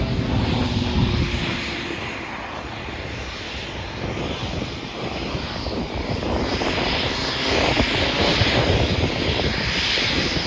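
Propeller aerobatic planes' engines running overhead during a two-plane aerobatic display. The sound swells and fades, its pitch drops in the first second, and it grows louder from about six seconds in.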